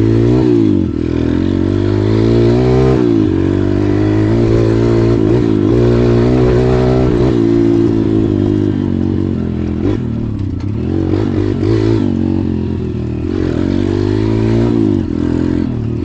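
140cc pit bike's single-cylinder four-stroke engine running under way, its revs rising and falling several times as the throttle is opened and closed.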